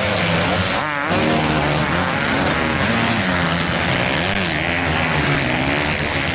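Many motocross bikes' engines revving together at a race start, several overlapping engine notes rising and falling at once.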